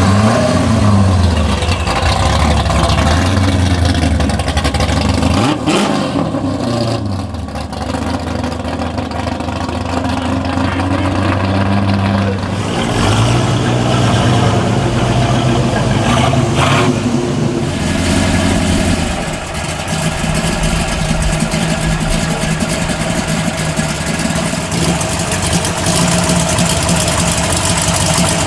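Car engines running at idle with a few revs that rise and fall in pitch in the first half, then settling to a steady idle.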